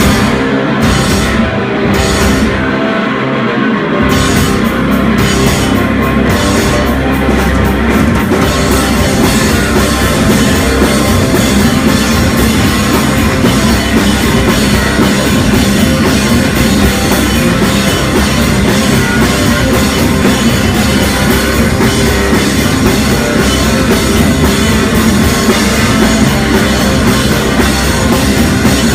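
Live heavy rock band playing loud with a full drum kit. The low end fills out about four seconds in, and the music is dense and steady from there.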